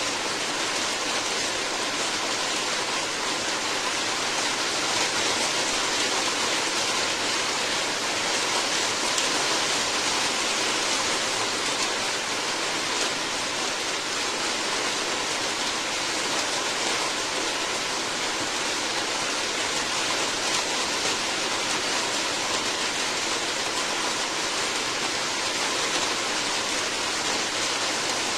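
Steady heavy rain, a dense even hiss of falling drops.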